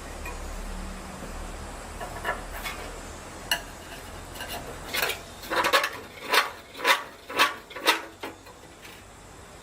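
Metal striking metal: a few scattered taps, then a steady run of about six clanks roughly half a second apart. A low rumble runs under the first few seconds.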